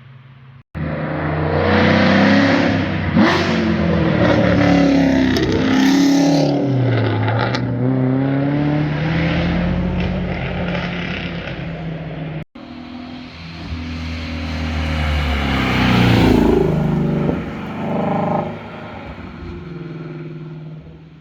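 Cars driving past at speed, engines revving with exhaust notes that climb and fall in pitch through the pass. Two separate flybys, each starting abruptly, the second peaking about two-thirds of the way in.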